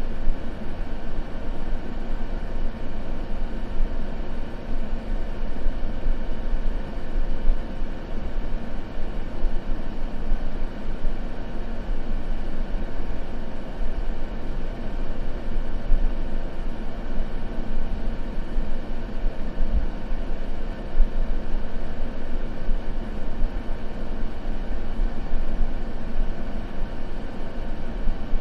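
Steady, unchanging sleep noise, deep and rumbling rather than hissy, with a faint even hum in it. There is no crackle or other event.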